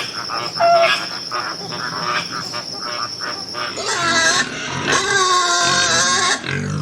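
An animal grunting in quick short strokes, about five a second, then giving loud, shrill, wavering squeals about four seconds in and again from about five seconds. A steady high whine runs under the first half.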